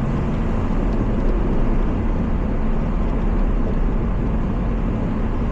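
Car engine running steadily with constant tyre and road noise on a snow-covered road, heard from inside the cabin.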